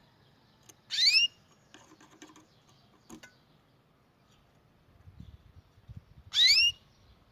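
Canary giving two short rising call notes, one about a second in and one near the end, with faint clicks and rustles between.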